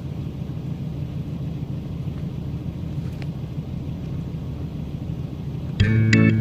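Steady low rumble, then guitar music starts abruptly near the end.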